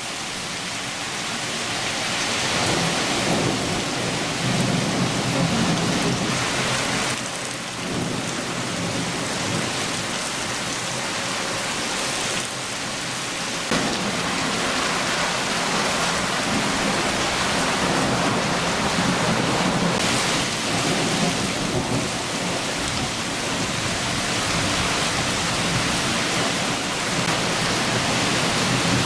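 Steady downpour of a summer shower, with low rolling thunder rumbling underneath in slow swells.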